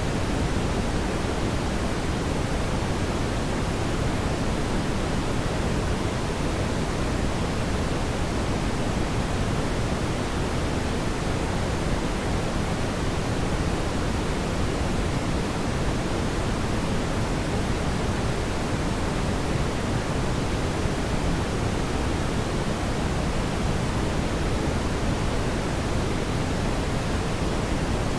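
Fireplace fire burning with a steady, even rushing sound, heaviest in the low end, with no distinct crackles or pops.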